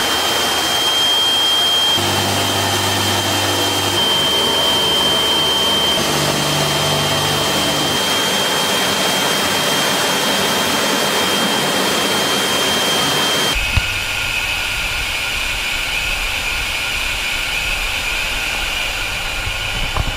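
Tu-95MS bomber's turboprop engines running: a loud, steady noise with a high turbine whine. The sound changes abruptly at several cuts, and about two-thirds of the way through the whine drops lower and a deeper rumble comes in.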